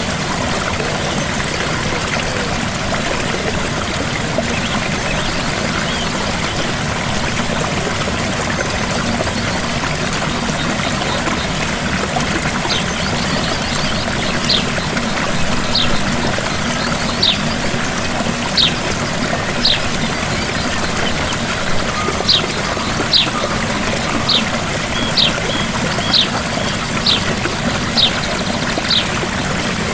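Gentle waterfall, water pouring and splashing steadily. From about halfway, short high falling chirps repeat roughly once a second over the water.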